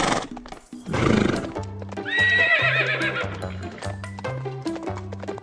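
Horse whinnying: a noisy snort-like burst, then a quavering, falling neigh about two seconds in, over background music.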